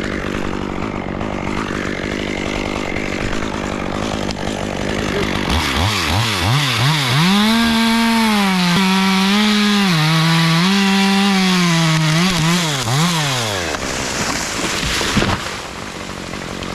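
Small chainsaw idling, then revved up about five seconds in and held at high revs while cutting wood, its pitch dipping and recovering under load for about eight seconds before it drops back to idle. A single sharp knock comes near the end.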